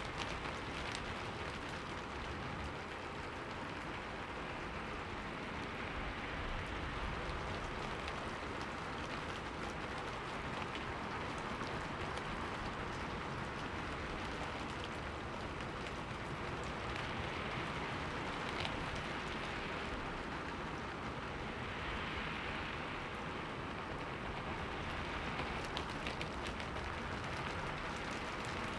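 Steady rain falling on a window, an even patter with occasional sharper drop ticks.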